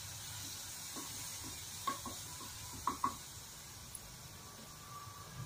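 Onion, garlic, chili and cumin paste sizzling in oil in a non-stick kadai. A wooden spatula stirs it, knocking against the pan about five times in the first three seconds, after which only the sizzle goes on.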